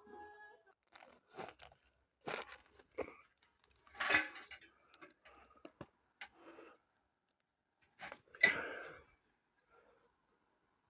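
Irregular rustling and crunching, like dry material being handled, with two louder bursts about four and eight and a half seconds in.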